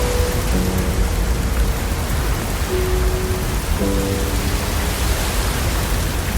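Steady rain hiss with a deep, even rumble underneath, and a few soft, slow piano-like chords from gentle background music.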